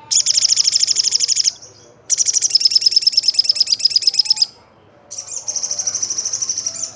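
Olive-backed sunbird singing: three fast, high-pitched trills of rapidly repeated notes, about ten a second, each lasting one and a half to two and a half seconds with short pauses between them.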